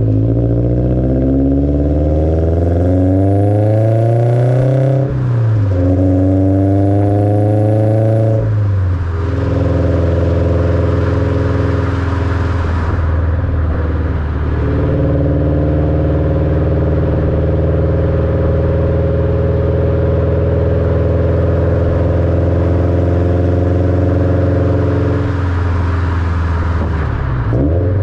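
Subaru BRZ's 2.0-litre flat-four running through catted unequal-length headers and a Borla cat-back exhaust. The revs climb for about five seconds, dip briefly as in a gear change, and climb again. After that the engine holds a steady drone until near the end.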